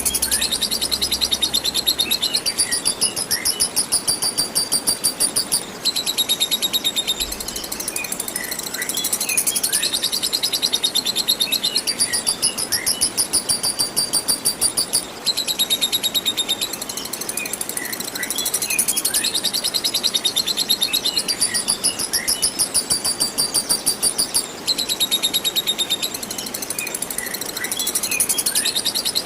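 Lovebird 'ngekek panjang': a long, very fast, high-pitched chattering trill held for many seconds, breaking off briefly about every nine seconds and starting again, with short sliding chirps in between.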